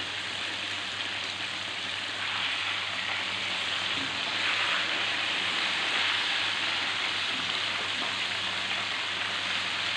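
Chicken pieces shallow-frying in hot oil in a pan: a steady sizzle that grows a little louder about two seconds in.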